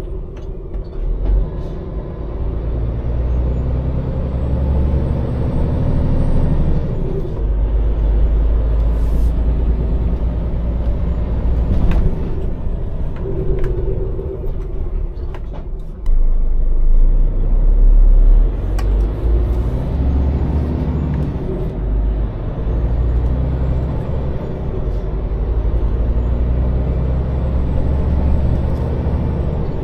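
Scania lorry's diesel engine running as it drives, its note rising and falling, with short hisses from the air brakes.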